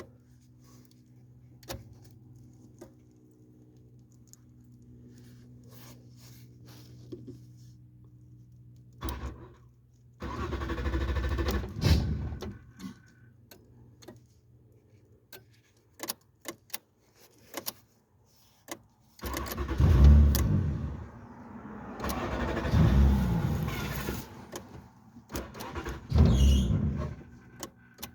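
Keys jangling and clicking at the ignition of a 1995 Nissan Maxima, then its starter cranking the engine in three loud goes: about ten seconds in, for several seconds from about nineteen seconds, and briefly near the end. These are the first start attempts with the alarm's cut-out disabled.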